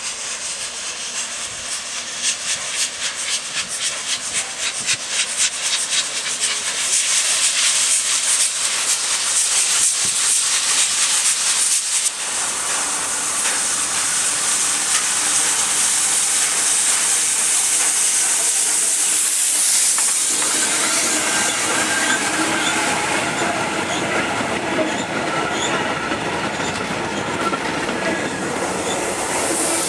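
Heritage train running past, its wheels clattering rapidly over the rails under a strong hiss. The sound changes abruptly about twelve seconds in and again about twenty seconds in, where a fuller rumble with short squealing tones takes over.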